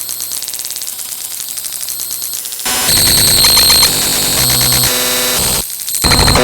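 A string of harsh electronic static and buzzing noises that switch abruptly from one to the next: a quieter buzzy noise for the first couple of seconds, then a much louder, shrill grating noise, a brief drop, and another loud burst near the end.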